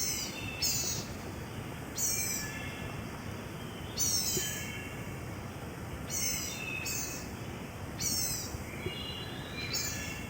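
Blue-gray gnatcatcher giving its lispy, high-pitched call notes, short thin calls repeated every second or two about eight times.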